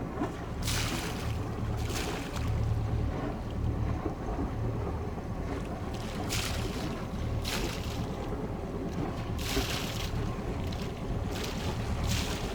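Wind buffeting the microphone over a steady low rumble aboard a sailboat under way, with rushes of water hiss every second or two as the hull moves through the sea.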